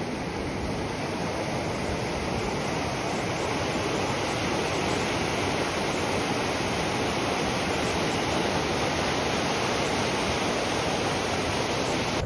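Steady rush of falling or fast-flowing water, like a waterfall, growing slightly louder over the first few seconds and cutting off abruptly at the end.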